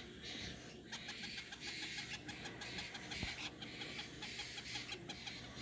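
Young hand-fed parrots chirping in a rapid series of short, repeated calls.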